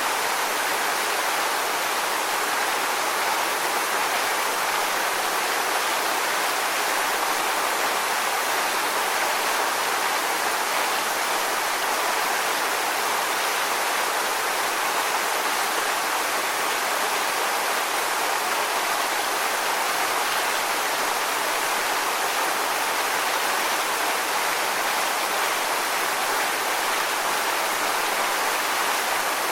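Steady rushing water, an even hiss with no rise and fall of breaking waves and no separate splashes.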